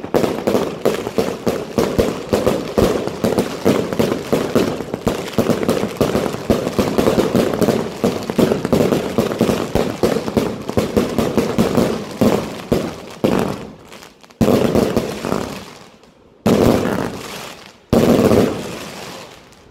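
Pyrostar Thunderstorm 100-shot, 20 mm fireworks cake firing a rapid barrage, the shots coming several a second and running together. Near the end it changes to three separate loud bursts, each trailing off over a second or two.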